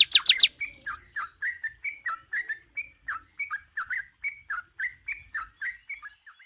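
Songbird song: a rapid, loud run of falling high whistles that stops about half a second in, then a steady string of short chirps, about three to four a second.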